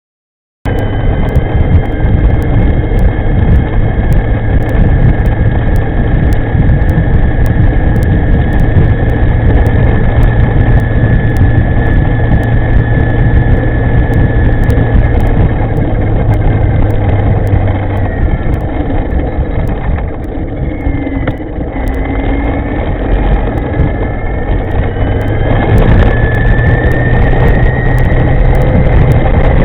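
Ride on an electric scooter (CPC e-moving with an upgraded V200 drive): loud wind rumble on the microphone with a steady high motor whine that slides in pitch as speed changes, starting abruptly under a second in.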